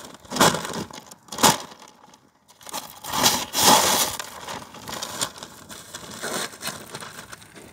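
Large dog-food bag being torn and crumpled by hand. There are sharp rips about half a second and a second and a half in, then a longer, louder tearing rustle around three to four seconds in, with fainter crinkling after.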